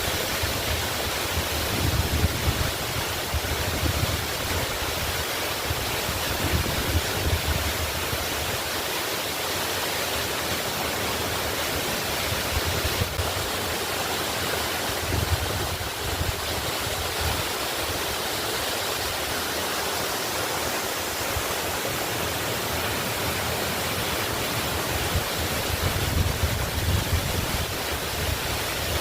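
Waterfall rushing steadily, a dense even hiss, with a low rumble underneath that swells and fades several times.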